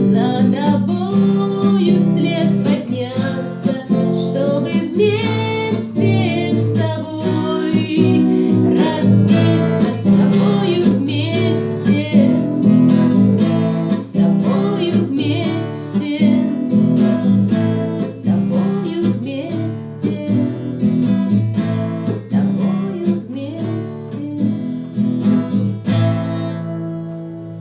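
Instrumental guitar music: an acoustic guitar playing plucked and strummed chords over bass notes as the song closes, fading down near the end.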